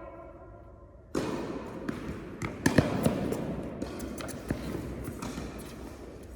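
Tennis balls bouncing and knocking on an indoor court floor, with scattered sharp impacts and a quick cluster of loud knocks about halfway through.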